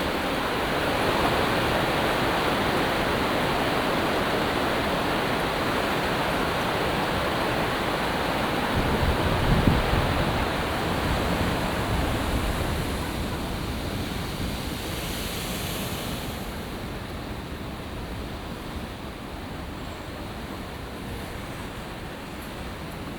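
Stormy sea surf pounding a sea wall: a steady rushing roar of breaking waves, with one heavier low crash about ten seconds in, after which it eases off.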